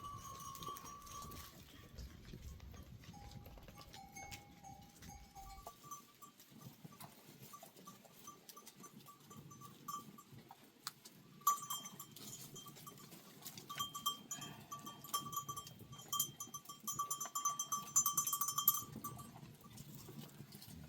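Bells hung on a herd of goats clinking and ringing irregularly as the animals move, busiest in the second half.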